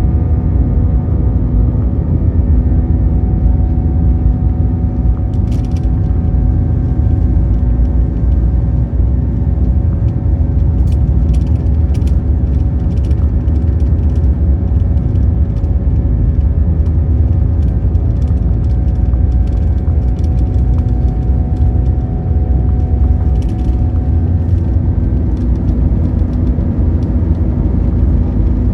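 Airbus A320-200 jet heard from inside the cabin: a loud, steady rumble of engines and airflow with a few constant engine tones over it, and a few light rattles from the cabin.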